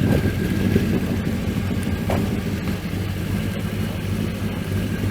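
Car engine idling steadily, low in pitch and without revving.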